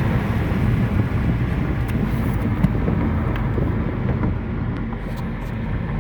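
Steady road and engine noise of a car driving on a freeway, mostly a low rumble, with one brief tick about two and a half seconds in.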